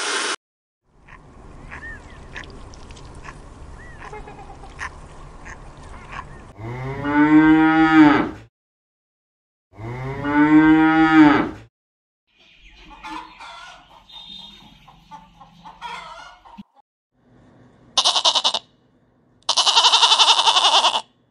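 Highland calf mooing twice, two long calls a couple of seconds apart that rise and fall in pitch; near the end a goat bleats twice, short then longer.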